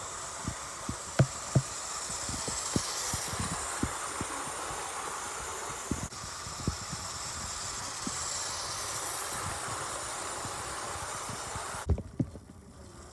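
Hornby Western Pullman OO gauge model train with a ringfield motor running around its track: a steady running hiss with irregular clicks as the wheels cross rail joints. The motor is running sweetly after cleaning and oiling, with no squeal. The running sound stops abruptly about twelve seconds in.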